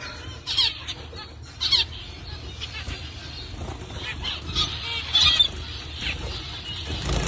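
Small cage birds calling in short chirps, several of which drop sharply in pitch, with a louder cluster of calls about five seconds in.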